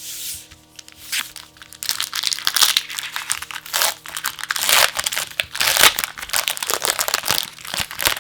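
Plastic packaging of a pack of trading-card sleeves crinkling as it is handled and opened. It starts lightly about a second in and runs as a dense, steady crinkle from about two seconds in until near the end.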